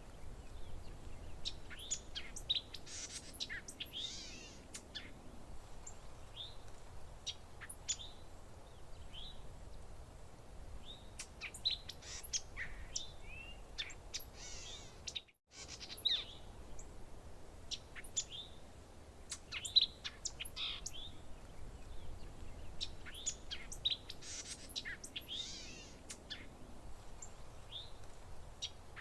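Several songbirds chirping and singing: short whistled calls, sweeps and trills overlapping, over a faint low background hiss. The sound cuts out completely for a moment about 15 seconds in.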